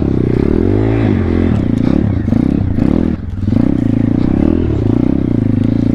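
Single-cylinder four-stroke engine of a Thumpstar 140cc pit bike running under load off-road, its pitch rising and falling again and again as the throttle is worked, with a short drop a little past halfway. Light clattering and scraping come through over the engine.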